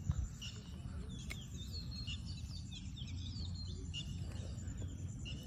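Small birds chirping repeatedly in short, high chirps over a low, steady rumble, with one sharp click a little over a second in.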